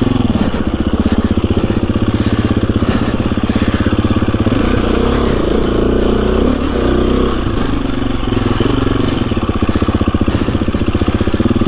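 KTM 350 EXC-F's single-cylinder four-stroke engine running under load as the bike is ridden, its note rising and falling with the throttle.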